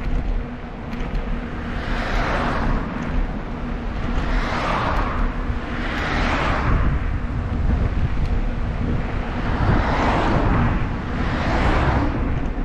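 Wind rumbling on the microphone of a moving bicycle, with about five motor vehicles passing one after another, each a swell of tyre and engine noise that rises and fades within a second or two.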